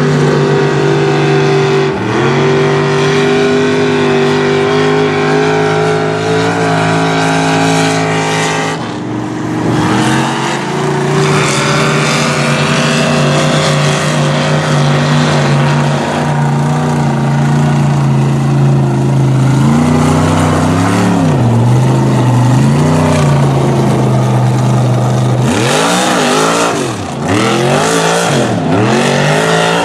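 Mud truck engine running loud at high, steady revs while churning through a mud pit, its pitch wavering slightly. Later the engine is revved up and down, with several quick rev swings near the end.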